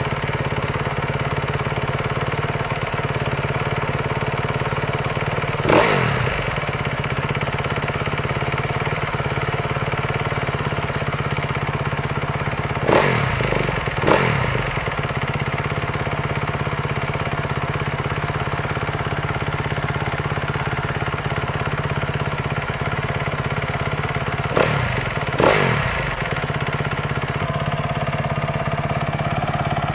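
2012 Kawasaki KX250F's single-cylinder four-stroke engine idling steadily while warming up from a cold start, with five quick throttle blips: one about six seconds in, then two pairs later on.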